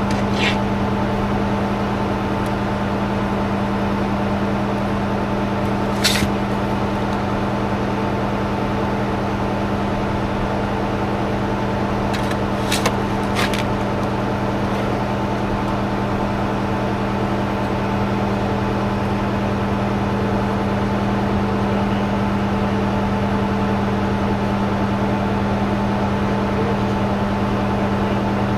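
An engine running at a steady speed with an even hum, likely the work machine used to spread the soil. A few short clicks or knocks come through it about six seconds in and twice around thirteen seconds.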